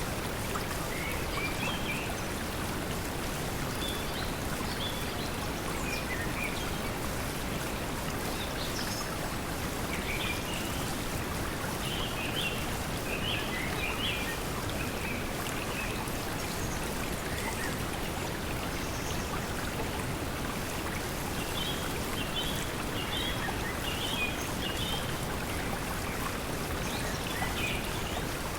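Steady pink noise mixed with flowing water, with small birds giving short high chirps in scattered clusters over it.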